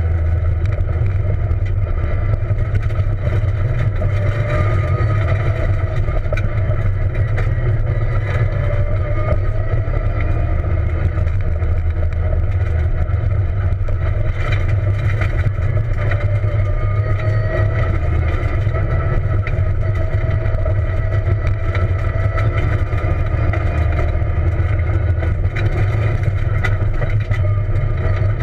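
Peugeot 207 rally car heard from inside the cabin at speed on a gravel road: the engine note rises and falls, over a heavy, constant low rumble.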